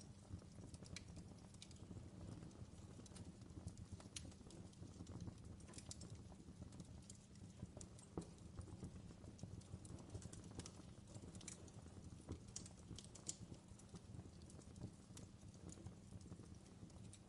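Faint fireplace crackling: irregular small pops and snaps over a low, steady rumble.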